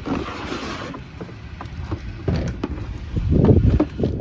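Handling noises: scattered clicks and knocks as the coffee maker and its box are moved about. A low rumble of wind on the microphone comes about three seconds in.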